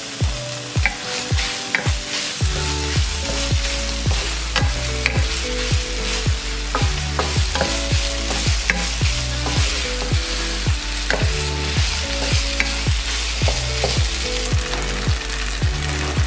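Minced pork and a just-added cornstarch-water slurry sizzling and frying in a non-stick pan while a wooden spatula stirs it, with scattered clicks of the spatula against the pan. A background music track with a steady beat plays throughout.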